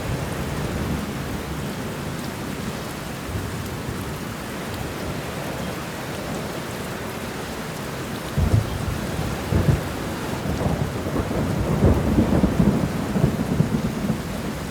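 Steady heavy rain falling, with thunder rumbling and crackling in from about eight seconds in, loudest in the last few seconds.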